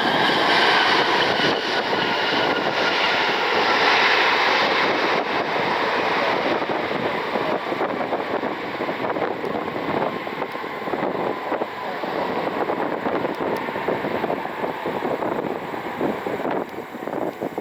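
Jet airliner passing close by: engine whine falling in pitch over the first few seconds over a broad rush of jet noise, which then slowly fades away, with some wind on the microphone.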